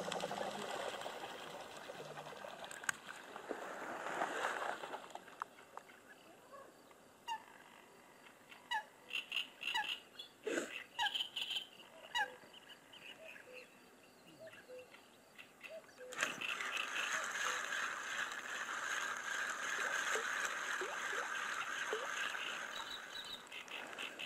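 Birds calling at a reedy pond: a scatter of short calls, several dropping in pitch, through the middle, between stretches of even rushing noise.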